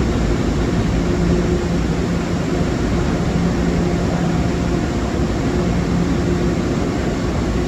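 Steady rumble and hiss of a passing train, with a constant low hum running under it.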